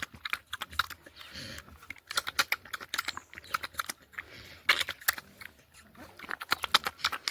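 Pigs in a pen: rapid, irregular sharp clicks, several a second, with a short grunt about a second and a half in.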